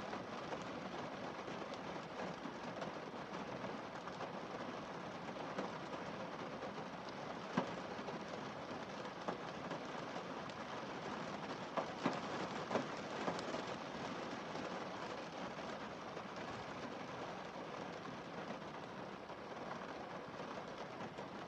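Rain falling steadily on a car windscreen, a constant patter with a few louder single drops hitting the glass a third of the way in and again around the middle.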